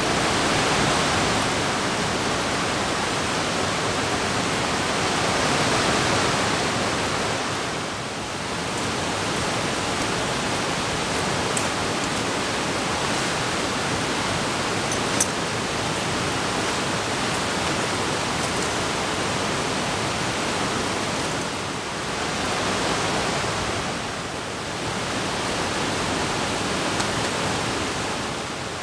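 Steady rain falling on trees and ground, a continuous hiss that swells and eases slowly, with a couple of faint ticks midway.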